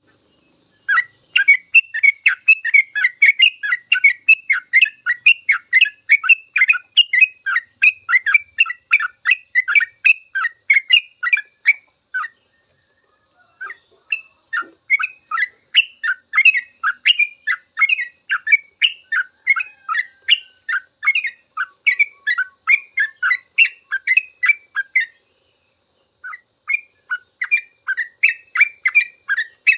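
Yellow-vented bulbul (trucukan) singing its fast 'ropel' song: a long, rapid run of bright chattering notes. The runs break off briefly twice and then start again.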